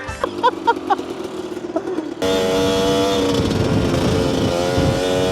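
Off-road motorcycle engine that cuts in abruptly about two seconds in and runs at steady revs, after a quieter opening with a few short pitched blips.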